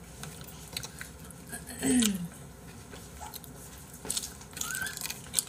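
A man chewing and biting roast chicken close to the microphone, with small wet mouth clicks, and a short low vocal sound about two seconds in.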